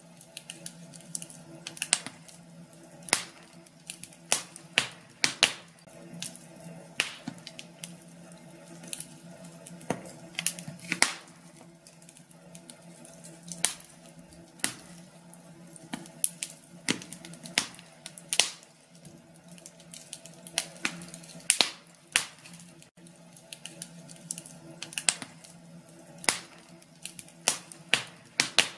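Fire burning in a fireplace, crackling with irregular sharp pops and snaps, some close together and some a second or more apart.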